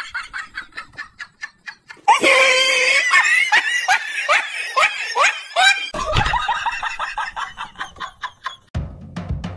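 A person laughing hard in quick, high-pitched, repeated bursts, much louder from about two seconds in.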